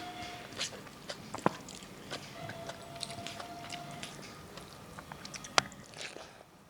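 A person eating close to the microphone: chewing and biting with wet mouth clicks, and two sharper clicks, about a second and a half in and again near the end.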